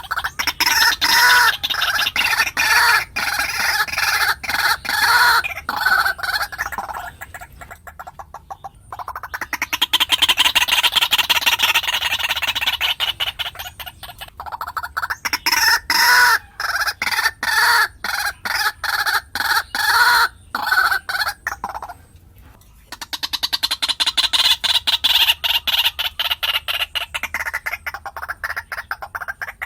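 White-breasted waterhen calling: long bouts of rapidly repeated harsh notes, each bout lasting several seconds, with short breaks between them, as used for a decoy call.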